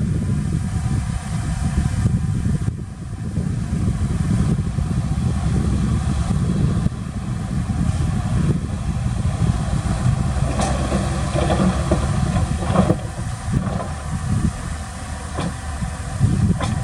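Heavy diesel engine of earthmoving machinery running with a steady low rumble, with a few sharp knocks and clanks in the second half.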